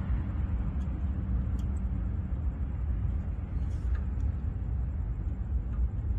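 Car engine idling at operating temperature with a steady low rumble, with a few faint ticks over it.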